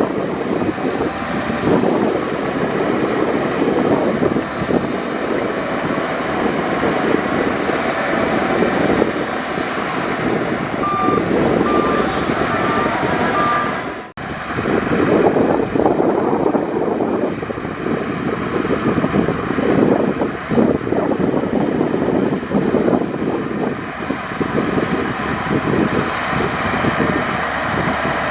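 Heavy diesel earthmoving machinery running steadily, with a reversing alarm beeping four times about halfway through. The sound drops out suddenly for a moment just after the beeps.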